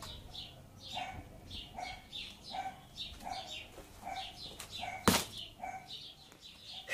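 Short bird calls repeated about twice a second, with one sharp click about five seconds in.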